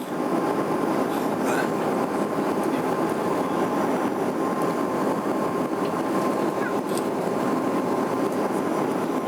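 Steady cabin noise of an airliner in flight: an even rumbling hiss with a faint constant whine above it.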